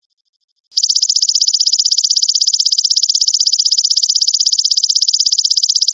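Belalang emas (golden grasshopper) calling, used as a tutor call for songbirds. A faint, even ticking gives way, just under a second in, to a loud, high-pitched, rapidly pulsing trill that holds steady.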